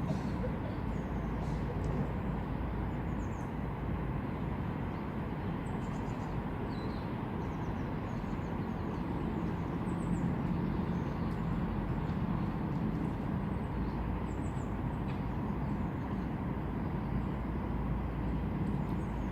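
Outdoor ambience: a steady low rumble with faint, short, high chirps of small birds scattered throughout.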